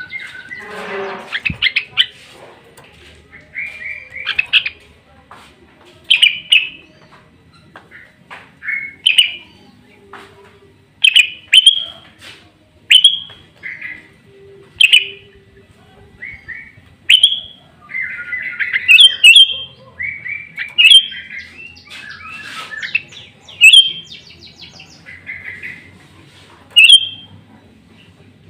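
Sooty-headed bulbul singing vigorously: short, loud, upward-sweeping notes repeated every second or two, some run together into brief chattering phrases.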